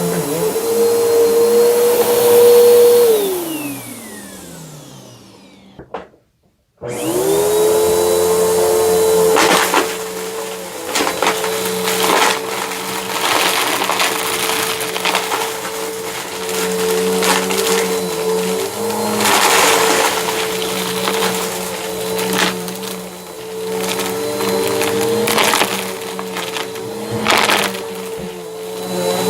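Bissell vacuum cleaner running with a steady motor whine, then switched off about three seconds in so the motor winds down to silence, and switched back on a few seconds later, quickly spinning up. Once it is running again the brushroll makes a crackling crunch, with many sharp clicks over the motor.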